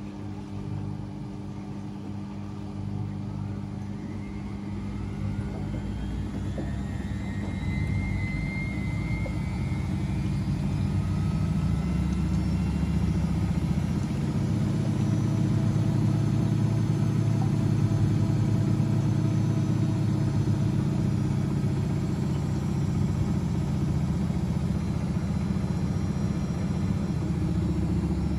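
Front-loading washing machines running, with a motor whine rising in pitch and the drum hum growing louder as the drum speeds up, then holding steady.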